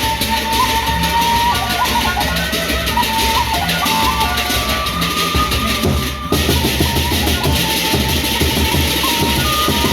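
Gendang beleq ensemble music: large Sasak drums and cymbals in a dense, steady beat under a high melody line that holds and steps between notes. The sound drops out briefly about six seconds in, then comes back.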